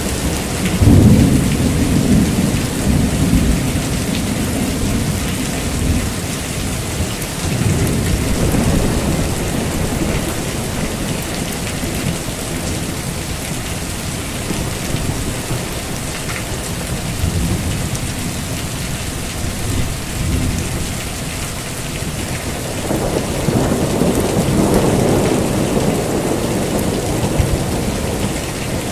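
Heavy rain falling steadily, with rolling thunder. The loudest rumble comes about a second in and lasts several seconds, and further rumbles follow, including a long one near the end.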